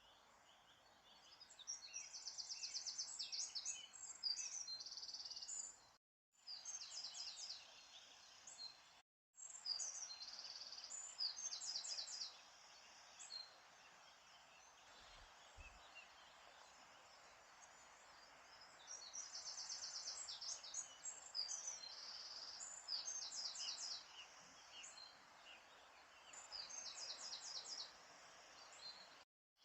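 Songbirds singing: repeated high, rapid trilled phrases with pauses between them, over a faint steady hiss. The sound cuts out completely for a moment three times.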